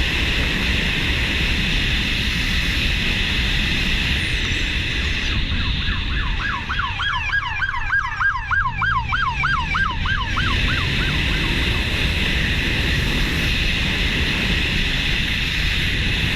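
An emergency vehicle's siren in a fast yelp pattern, wailing up and down about three to four times a second. It starts about five seconds in and fades out about eleven seconds in. Steady wind and road noise runs under it.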